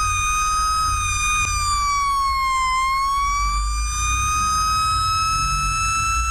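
Fire engine siren holding a high, steady pitch that sags a little about two and a half seconds in and climbs back, over the low rumble of the engine-tanker's motor and road noise.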